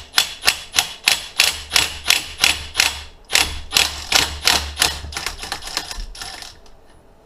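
Socket ratchet clicking steadily, about three clicks a second with a brief pause midway, as it turns out a 27 mm nut on the engine's left-side crankcase.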